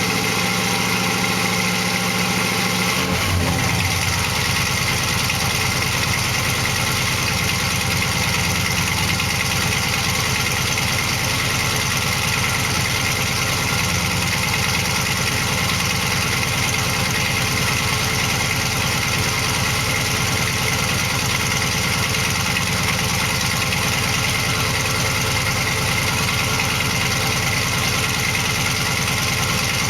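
1970 Dodge Charger's 400 cubic inch big-block V8 idling steadily after a cold start, the engine note shifting about three seconds in. It runs smoothly, though the owner says the carburettor still needs adjusting.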